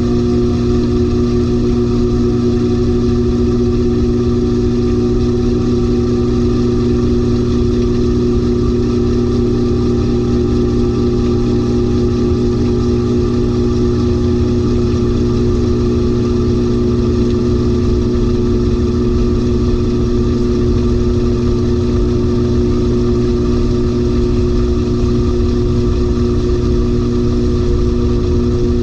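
LG 18 kg top-load washing machine running through its rinse, giving a steady motor hum with a fainter tone that slowly rises in pitch.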